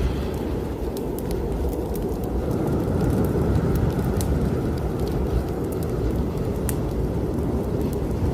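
Snowstorm wind blowing hard, a deep steady rumble with a faint whistle that rises and falls, over scattered sharp crackles and pops from a wood fire in a fireplace.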